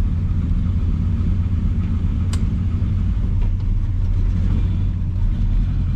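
A 1970 Chevelle SS's V8 running steadily at low speed, a deep rumble heard from inside the cabin. A single light click sounds about two seconds in.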